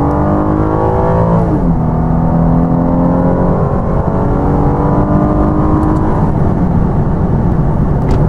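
Mercedes CLS 350's 3.5-litre V6 petrol engine at full throttle, heard from inside the cabin, revving up through the gears. The 7-speed automatic upshifts about a second and a half in, the pitch dropping sharply, and the engine climbs again and shifts up once more later on.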